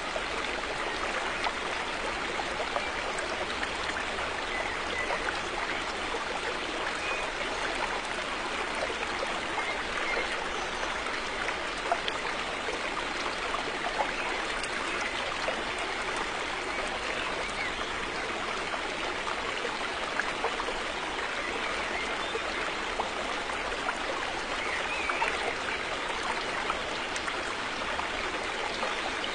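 A river flowing steadily, water running and trickling over rocks with small splashes.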